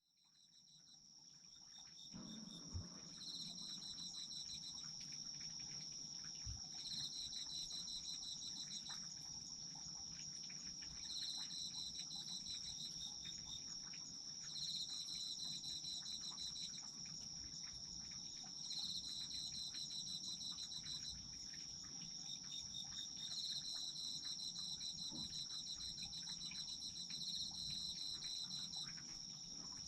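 Autumn insects calling in chorus: one trilling without pause on a high, steady note, another chirping in rapid pulsed bouts of one to two seconds, about every four seconds. The sound fades in over the first two seconds.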